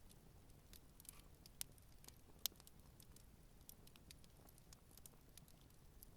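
Campfire burning gently: faint, irregular crackles and small pops from the burning wood, the sharpest pop about two and a half seconds in.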